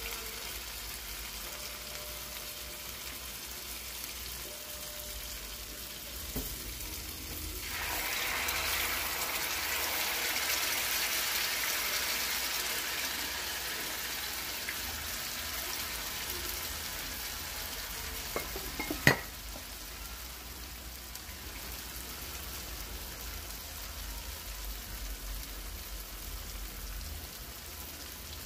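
Patties of hot water cornbread batter frying in shallow hot oil in a skillet, with a steady sizzle that swells about eight seconds in and then slowly eases off. A single sharp click comes about two-thirds of the way through.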